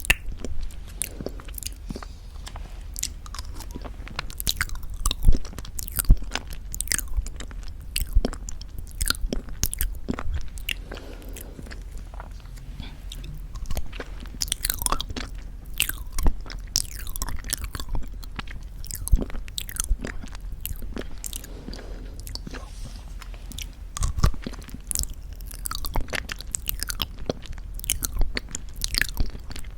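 Close-up eating sounds of very thick Greek yogurt with honey: irregular wet mouth smacks and clicks, several a second, over a faint low hum.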